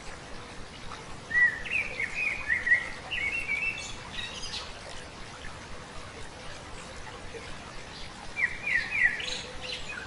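A songbird sings two phrases of quick, rising chirped notes, one about a second in and another near the end, over the steady rush of a stream.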